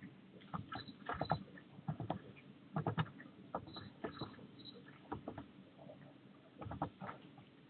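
Small bird at a garden feeder: irregular clusters of small taps, clicks and scratches from its beak and claws on the wire and seed, with three faint short high chirps near the middle.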